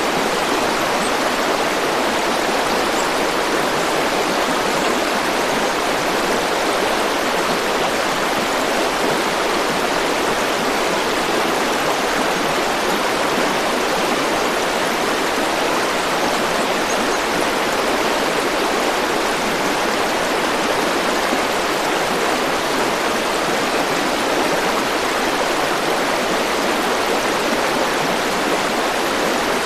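A river or stream rushing steadily over rocks, an even flow of water.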